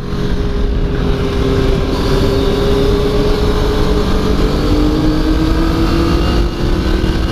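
Motorcycle engine heard from onboard at speed through a corner, its note held steady and drifting slowly lower, dropping a step about five seconds in, with wind rush on the microphone.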